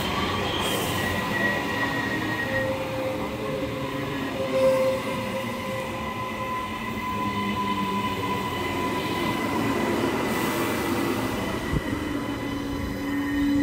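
Queensland Rail NGR electric multiple unit pulling slowly into the platform and braking: steady running noise from the wheels and running gear, with several drawn-out squealing tones coming and going, and one sharp click near the end.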